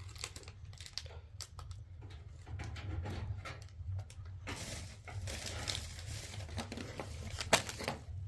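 Crinkling and rustling, like something being handled and crumpled, with scattered small clicks and knocks; a sharp click comes about seven and a half seconds in.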